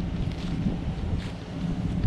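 Car engine idling low and steady, with wind buffeting the microphone.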